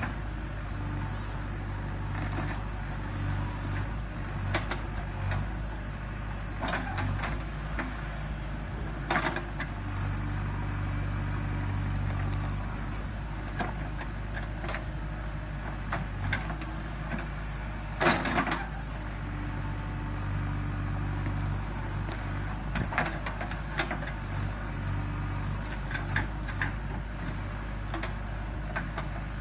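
JCB 3DX backhoe loader's diesel engine running steadily, swelling now and then under load, with scattered clanks and knocks; the loudest knock comes about eighteen seconds in.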